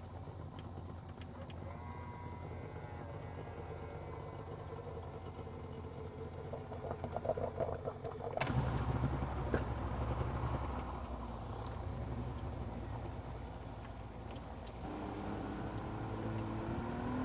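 An engine running steadily, with an abrupt change in the sound about eight seconds in and its pitch starting to rise near the end.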